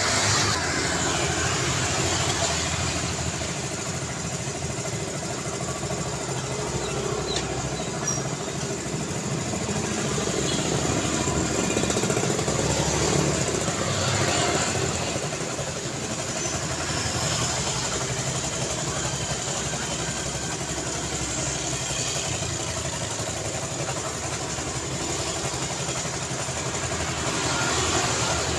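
Road traffic: a steady stream of vehicle engines and tyre noise, swelling as vehicles pass closer about halfway through and again near the end.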